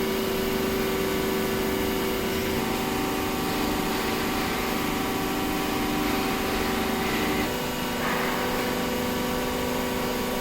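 Steady machine hum with several held tones, typical of a hydraulic press's motor-driven pump running; the pitch mix shifts about two and a half seconds in and again near seven and a half seconds.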